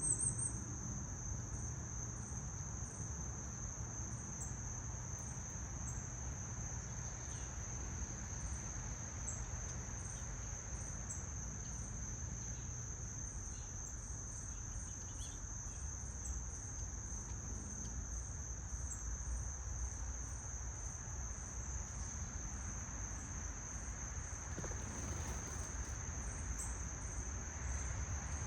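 Insects trilling steadily in one continuous high note, with fainter, higher chirps repeating about once a second over a low outdoor rumble.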